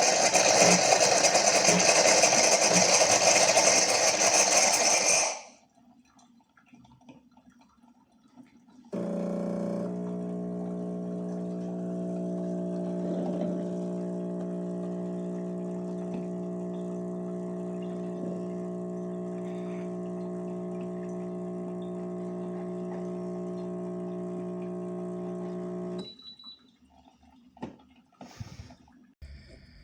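Chefman espresso machine running: a loud rushing hiss for the first five seconds stops abruptly. After a short pause the pump hums steadily for about seventeen seconds, then cuts off, followed by a few light clicks.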